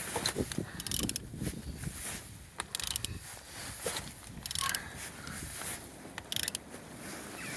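Renault F9Q 1.9 dCi diesel engine being turned over by hand with a ratchet wrench on the crankshaft. The ratchet clicks in short bursts every second or two as the engine rotates, which shows the engine turns freely and is not seized.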